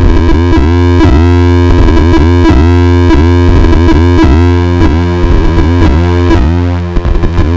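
NOVA DRONE analog drone synthesizer playing a loud, distorted, buzzing drone over a steady low bass, its pitch wobbling in a pulse about twice a second. The modulation changes and the level dips briefly about seven seconds in.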